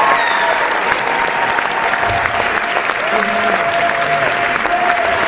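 A large crowd applauding steadily, many hands clapping at once in a dense, even patter that neither builds nor dies away.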